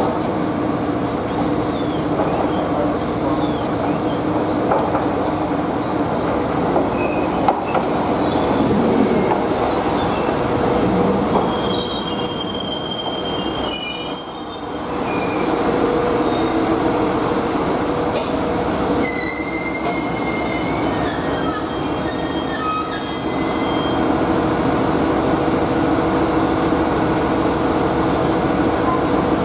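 JR East GV-E400 diesel-electric railcar arriving at a station: its engine runs with a steady hum throughout. From about twelve seconds in, high thin squeals come and go for some ten seconds as it brakes to a stop, and after that it stands idling.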